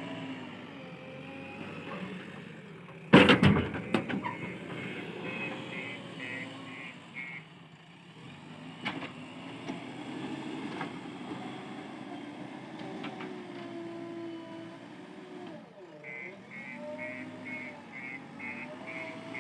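JCB 3DX backhoe loader's diesel engine running and changing pitch under hydraulic load while loading mud, with a loud crash about three seconds in. Two runs of rapid reversing-alarm beeps sound, one a second later and another near the end.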